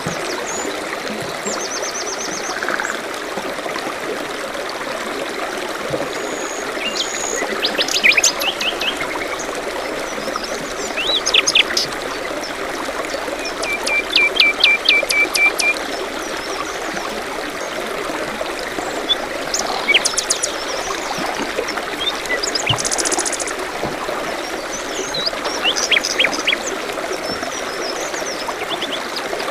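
Steady trickle of a forest stream with several small songbirds calling over it: short high trills and bursts of quick chirps every few seconds, including a run of rapid repeated notes about halfway through.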